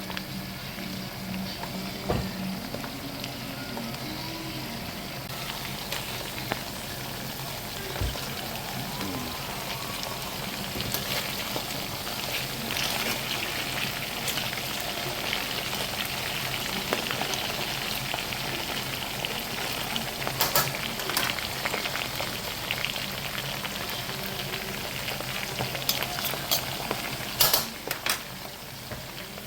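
Tempura-battered food deep-frying in hot oil, a steady crackling sizzle. A few sharp knocks and clicks cut through, mostly near the end.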